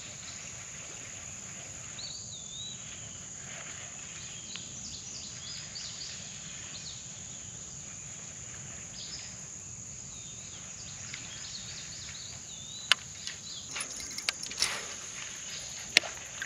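Steady high drone of insects calling, with scattered short chirping bird calls over it. Several sharp clicks come in the last few seconds.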